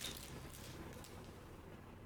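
A light click as trading cards are handled, then faint handling noise over a low steady hum.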